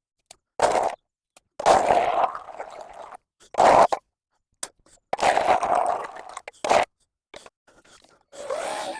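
Battery-powered sweeping brush scraping mud and wet leaves off a path in about six separate strokes, each half a second to a second and a half long, with short gaps between them.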